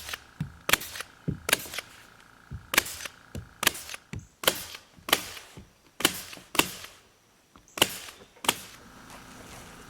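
Sharp, irregular striking blows, about one or two a second, some in quick pairs. They stop about a second before the end, leaving a faint steady hum.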